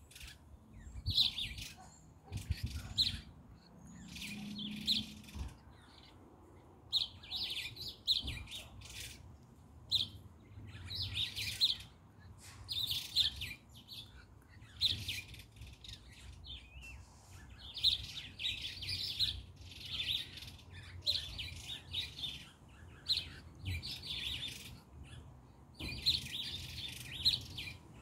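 Small birds chirping in quick clusters of high chirps, a new cluster every second or two.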